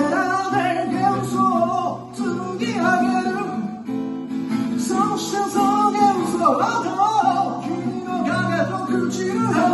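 Acoustic guitar playing a song, with a wavering, gliding melody sung over it without clear words.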